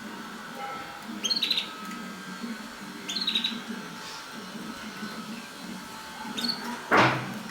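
Mosaic canaries giving short chirping calls, in two brief clusters about one and three seconds in, over a steady low hum. Near the end there is one loud short rustle.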